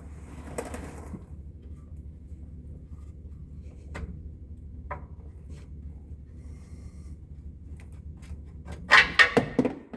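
Faint metal clicks and rubbing as a Silverado torsion key is levered up with a pry bar to free the half-moon adjuster, over a steady low hum. Near the end comes a burst of loud, short sounds.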